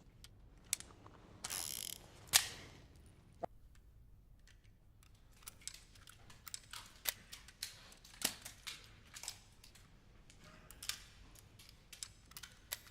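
Quiet series of small mechanical clicks and rattles, irregularly spaced, with a short scraping burst early on and one sharper click about two and a half seconds in.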